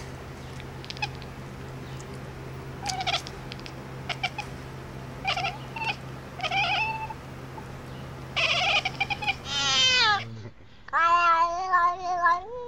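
A cat meowing in a series of short calls over a steady low hum, then a longer, wavering yowl near the end.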